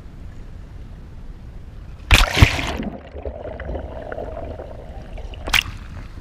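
Water splashing and sloshing at a kayak, with a loud splash about two seconds in and a shorter sharp one near the end, over a low rumble.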